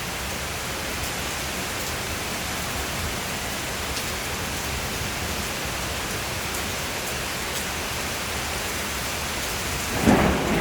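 Steady rain falling, with thunder breaking in near the end as a sudden loud low rumble.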